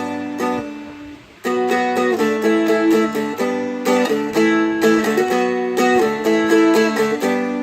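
Seagull Merlin M4 fretted dulcimer being strummed: one chord rings and fades, then about a second and a half in a steady, quick strumming rhythm of chords begins.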